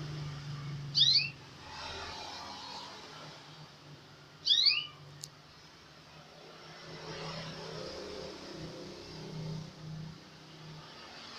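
Canary giving two short, sharp chirps that fall quickly in pitch, about a second in and again about four and a half seconds in, over a low steady hum.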